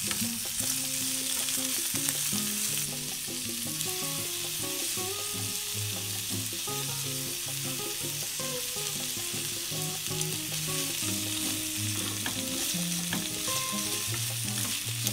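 Potatoes with bacon and wiener sausage sizzling steadily in oil in a frying pan.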